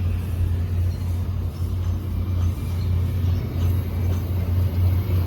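VIA Rail F40PH-2 diesel-electric locomotive running as it pulls a passenger train out, a steady low drone from its EMD two-stroke diesel engine under a wash of train noise.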